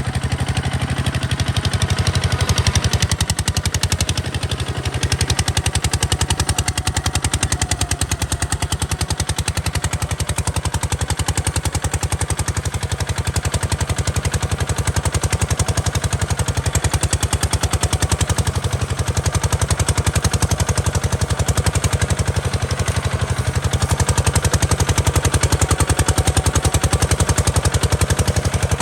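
Kubota RT140 DI single-cylinder diesel engine running steadily, a fast, even train of exhaust beats.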